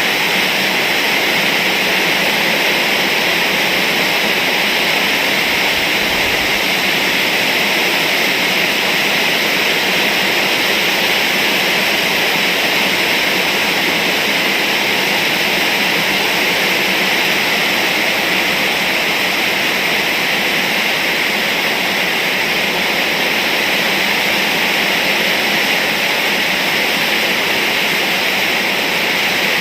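Heavy rain pouring down, a dense steady hiss that holds without letting up.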